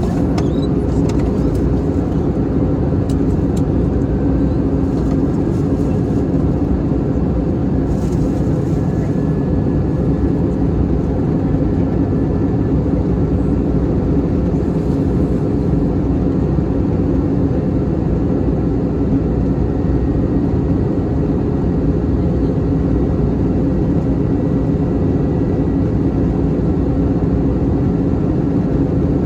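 Steady cabin drone inside an Airbus A321-211 during the descent: airflow and CFM56 turbofan noise with a constant low hum and no change in level.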